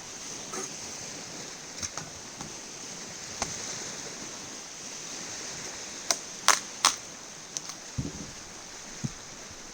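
Scattered sharp cracks and knocks of firewood being cut and broken up for a campfire, the two loudest close together about six and a half seconds in and two duller knocks near the end, over a steady hiss of surf and wind.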